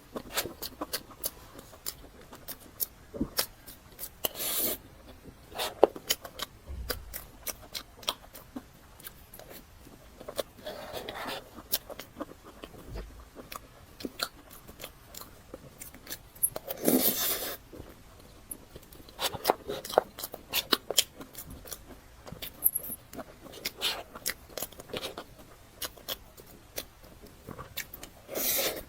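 Close-miked eating of a matcha cream box cake: soft chewing and many sharp, wet mouth clicks, with a few longer, louder stretches.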